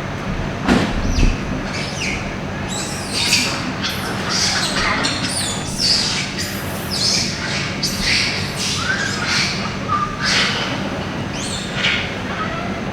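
Repeated short, high-pitched animal chirps and squeaks, with a few brief sliding calls near the end, over a steady low hum.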